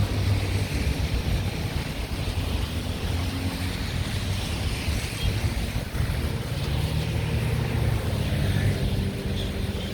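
City street traffic in heavy rain: vehicle engines running low under a steady hiss of rain and tyres on the wet road.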